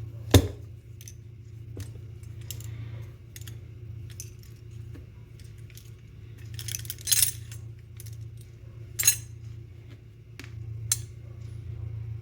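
Small metal parts and tools of an airsoft rifle clicking and clinking as they are handled and set down during disassembly. There are a handful of separate sharp clicks, the loudest about half a second in and a few close together past the middle, over a steady low hum.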